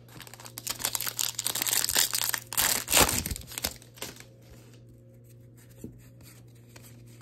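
A 2023 Topps Series 1 card pack's plastic wrapper being torn open and crinkled in the hands, loudest about three seconds in. After that there is only light handling, over a faint steady low hum.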